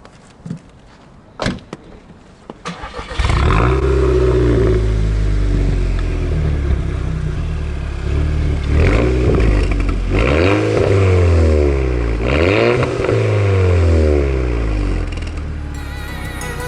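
The Volkswagen Scirocco R's 2.0-litre turbocharged four-cylinder starts up through a near straight-pipe exhaust with the resonator removed. It catches about three seconds in with a loud flare and settles to idle, then is revved three times, each rev rising and falling. Music comes in near the end.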